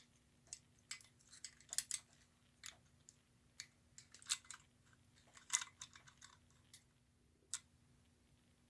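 Irregular small clicks and taps of small metal and plastic toy-train parts being handled and fitted together during reassembly, dense in the first six seconds and then sparse, over a faint steady hum.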